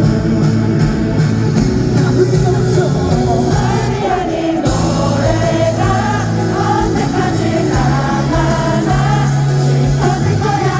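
Live concert music: a band with steady bass notes, and singing coming in about four seconds in, with the audience singing along.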